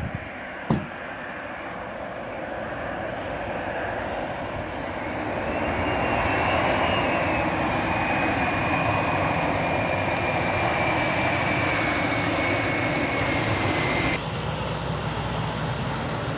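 Airliner engines passing, the noise building about a third of the way through with a high whine that sinks slightly in pitch, then cut off abruptly near the end. A single sharp knock comes just before the engine noise builds.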